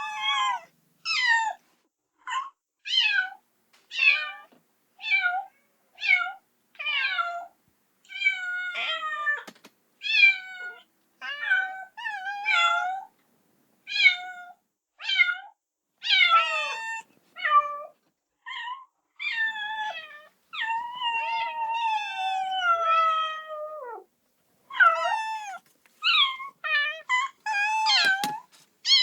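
Kitten meowing again and again, short high-pitched cries about once a second, with one long, drawn-out falling cry past the middle: a kitten crying for its mother.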